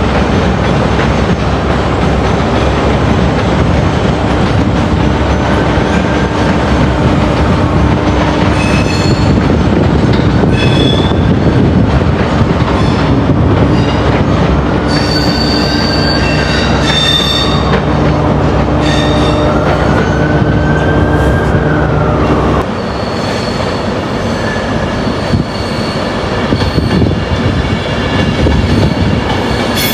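A train moving slowly through the station pointwork, its wheels squealing in several rising and falling tones over a steady rumble. The low rumble drops away about 23 seconds in, while faint squealing goes on.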